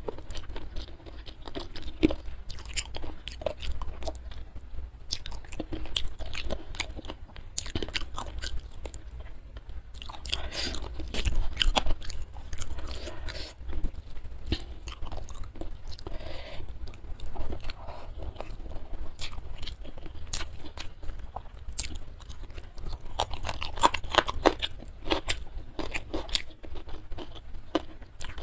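Close-miked chewing and crunching of a meal of spiced chicken feet and rice, eaten by hand: a steady stream of small crisp clicks and bites, busier about ten seconds in and again near the end.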